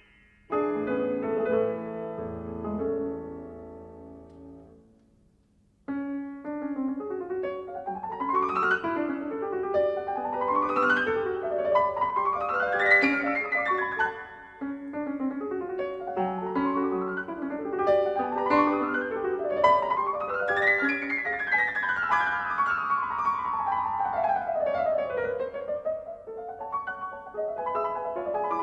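Solo piano music: a chord fades away, a brief silence, then a new passage of rippling arpeggios that sweep up and down the keyboard.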